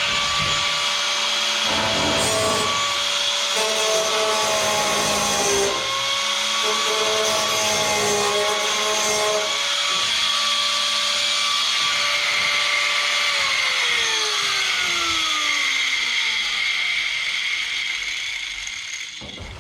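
Handheld electric power tool running at speed, its whine shifting in pitch as it works, while the middle brace of a steel boat hull is cut out. About 13 seconds in the whine falls away as the tool winds down.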